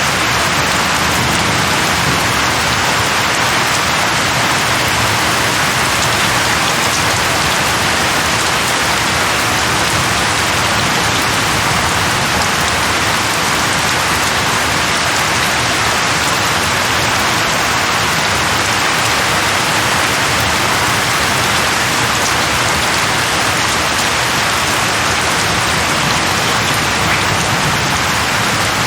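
Steady heavy rain falling, a dense even hiss of drops with no breaks or thunder.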